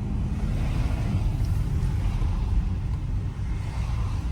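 Steady low rumble of engine and road noise inside a BMW X3 M's cabin while it cruises.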